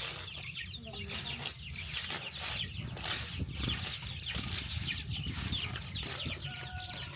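Domestic chickens clucking, with many short high chirps coming one after another over a steady low rumble.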